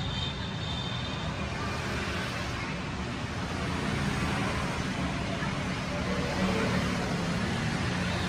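Steady background noise with a low hum underneath, without distinct clicks or other events.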